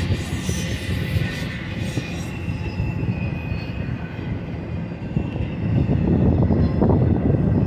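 Freight train of empty intermodal spine cars rolling by, a steady rumble of wheels on rail that grows louder near the end.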